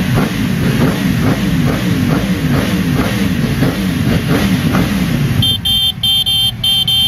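Yamaha R1 inline-four engine revved through its exhaust in quick repeated throttle blips, the pitch rising and falling again and again. Near the end the revving stops and a high beeping tone pulses on and off over the engine.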